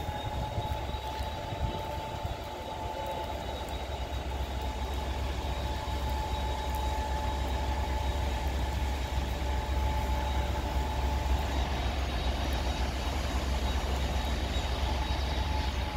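A diesel train idling out of sight at a station platform: a steady low engine rumble that grows a little louder a few seconds in, with two steady whines on top.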